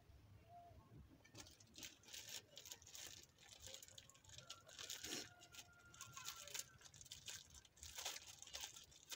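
Faint, irregular crackling and crunching of a simsim snack, sesame seeds bound in cooked sugar, being chewed.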